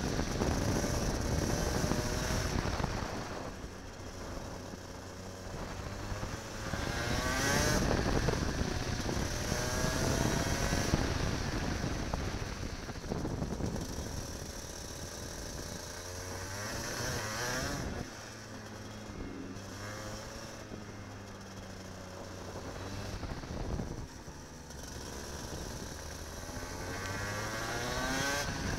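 Kart engine heard from on board, its pitch climbing as it accelerates down the straights and dropping as it slows for the corners, several times over. It is loudest near the start, again around a third of the way in, and near the end.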